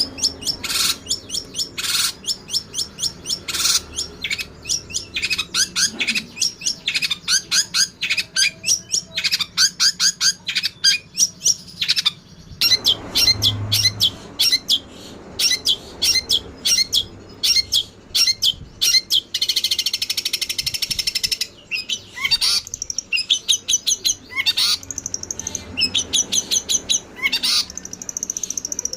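Fast, dense songbird chattering: strings of short high chirps and rapid trills, with a rougher, hissier stretch about two-thirds of the way through, typical of fighting tree sparrow calls used as tutoring material.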